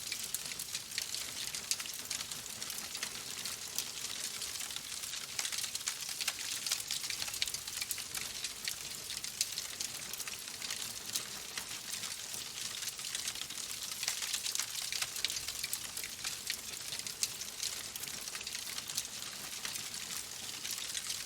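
Wood fire in a fireplace crackling steadily, with many small irregular pops and snaps over a soft hiss.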